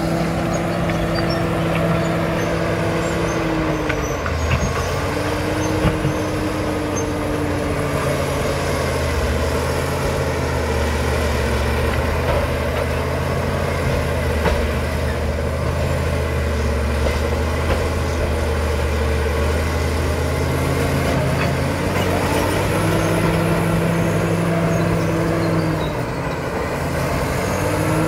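Caterpillar D7 bulldozer's diesel engine running steadily; its note drops about four seconds in, stays lower for most of the stretch, then rises again near the end with a brief dip just before the close.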